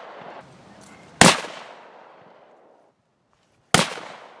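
Two .308 rifle shots about two and a half seconds apart, each a sharp crack followed by a fading echo.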